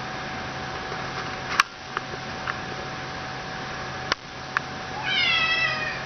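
Steady background hum with a few sharp clicks, then near the end a short, high-pitched animal cry that falls slightly in pitch.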